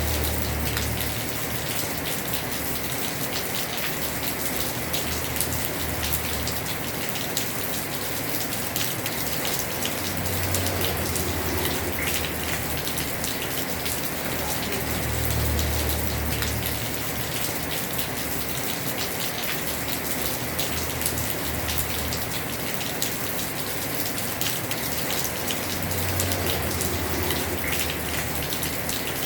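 Heavy rain drumming on a house roof: a dense, steady patter of drops. A low rumble swells and fades now and then underneath.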